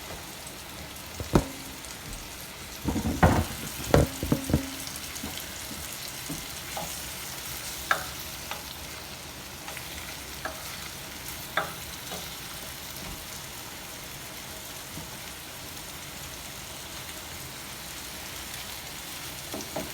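Chopped onion sizzling steadily in olive oil in a frying pan, with a utensil knocking and clinking against the pan, several times in the first few seconds and a couple more times later.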